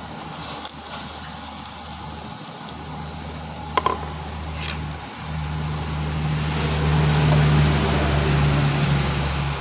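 Pork sizzling as it cooks, growing louder in the second half over a steady low hum. There is one short clink a little under four seconds in.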